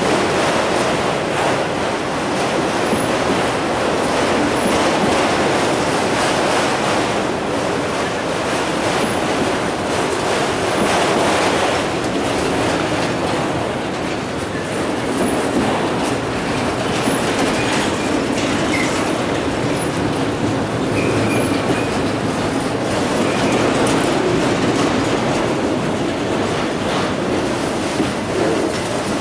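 A freight train of autorack cars rolling steadily past: a continuous rumble and clatter of steel wheels on the rails, with a few faint wheel squeals near the middle.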